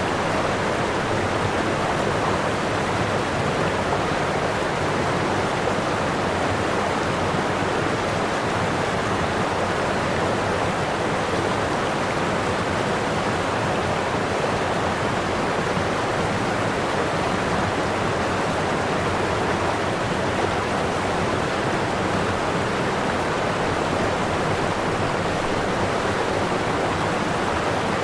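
Waterfall: falling water rushing steadily, with an even, unbroken hiss.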